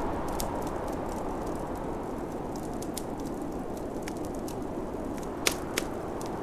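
Wood fire crackling with scattered small pops over a steady whoosh of snowstorm wind. Two louder pops come close together near the end.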